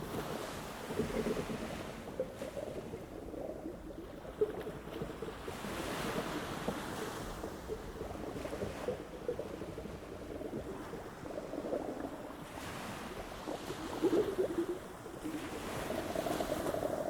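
Ocean waves washing onto a beach: a continuous surf hiss that swells in surges every few seconds as each wave comes in.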